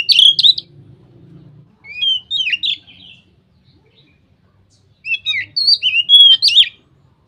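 Oriental magpie-robin (kacer) singing loud, open 'ngeplong' song: phrases of clear whistled notes with quick up-and-down sweeps. A phrase ends just after the start, another comes about two seconds in, and a longer one about five seconds in, with pauses between.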